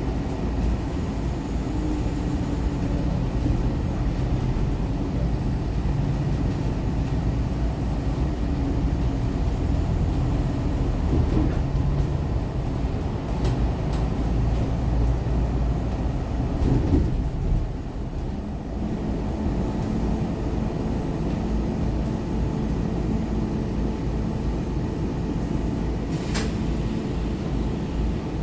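Scania K360UA articulated bus running, with a steady low engine and drivetrain rumble; the sound dips briefly about seventeen seconds in before carrying on.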